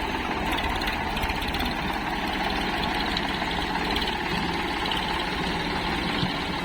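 Diesel engine of heavy farm or earth-moving machinery idling steadily, with a fast, even engine beat.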